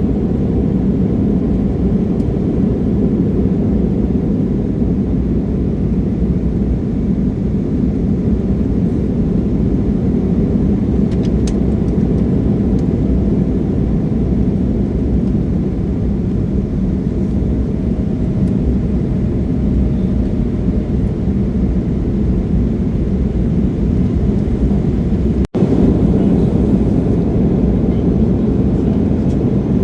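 Steady low roar inside the passenger cabin of an Embraer E175 airliner, from its two General Electric CF34 turbofan engines and the airflow. The roar breaks off for an instant about 25 seconds in.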